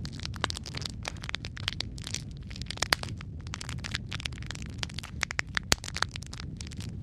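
Wood fire crackling: a steady low rumble of burning with many irregular pops and snaps, a few louder sharp cracks among them.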